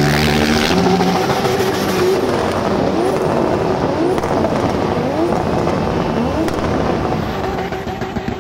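Drift car engine revving hard, its pitch rising again and again about once a second, over a steady noisy haze.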